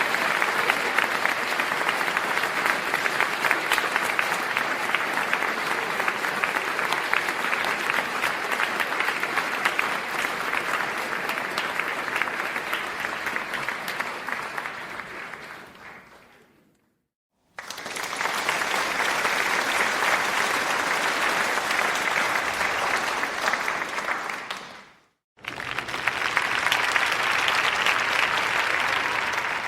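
A crowd applauding in three separate bursts: the first fades out to silence about halfway through, a second starts shortly after and fades away, and a third begins near the end and fades out.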